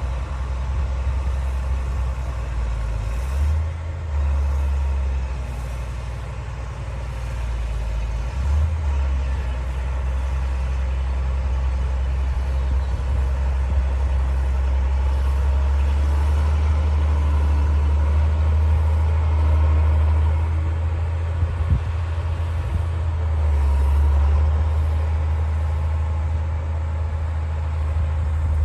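D60 bulldozer's diesel engine running with a deep, steady rumble that swells and eases now and then as the machine works. A couple of brief sharp clicks come about three quarters of the way through.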